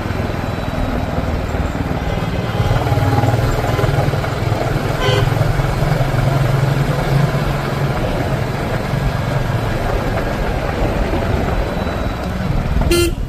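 Royal Enfield motorcycle engine running steadily under road and wind noise, with a short horn toot about five seconds in and a brief loud sound just before the end.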